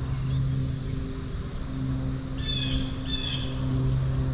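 A bird gives two short, harsh squawking calls in quick succession about halfway through, over a steady low hum.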